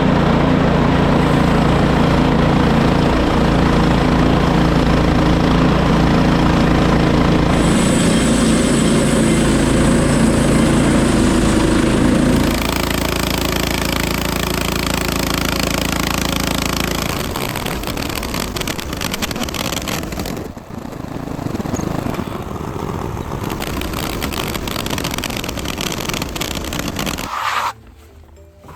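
Portable bandsaw mill's small gas engine running steadily while the band blade cuts through a black walnut log, a hard wood that has to be fed slowly. The sound shifts about 12 seconds in and again a few seconds later, turning noisier and a little quieter, and falls away near the end.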